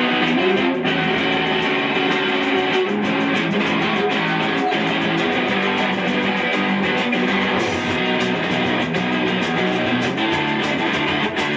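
A live rock band playing a song, led by strummed electric guitar, with a steady run of drum and cymbal hits.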